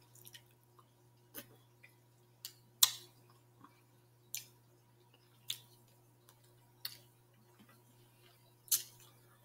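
A person chewing and eating a fried chicken leg: short, separate mouth smacks and clicks, about eight of them with quiet gaps between.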